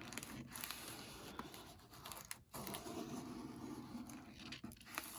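Faint rustling and light handling noises, with a few small clicks.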